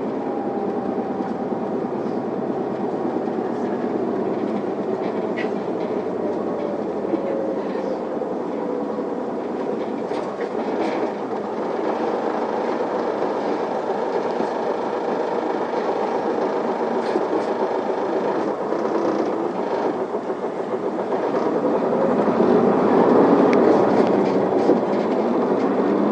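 Isuzu Erga city bus driving between stops, heard from inside the passenger cabin: a steady engine and road noise with faint whining tones, growing louder about three-quarters of the way through.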